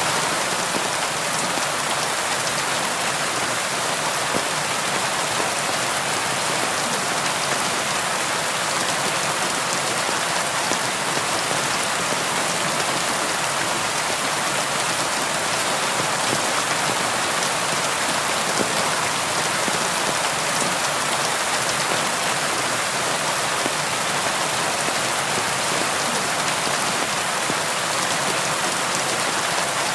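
Steady rain falling on a window and hard surfaces: an even hiss of many small drops with no let-up.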